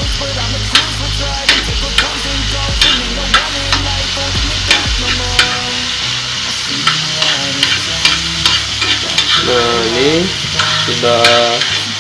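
Tomato pieces frying in hot oil, sizzling steadily, while a metal spoon stirs them and clicks and scrapes against the pan every second or so. The tomatoes are being fried down until they turn soft.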